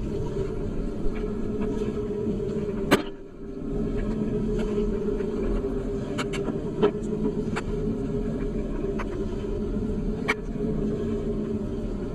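A vehicle driving along: a steady low rumble of engine and road noise, broken by scattered sharp ticks and a short drop in level about three seconds in.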